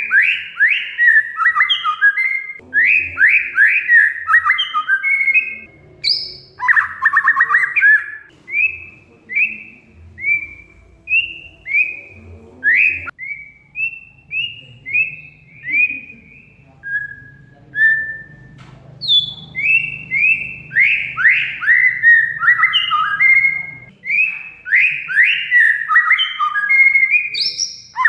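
Oriental magpie-robin (kacer) in full song: quick runs of loud, clear, down-slurred whistled notes. A harsh rattling chatter comes once about six seconds in, and a sparser stretch of single notes falls in the middle.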